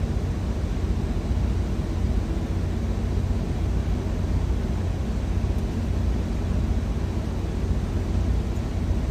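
Steady low rumble of an idling truck engine, heard inside the cab.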